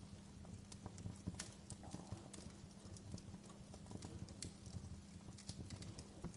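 Wood fire in a fireplace crackling: irregular sharp snaps and pops over a low steady rumble.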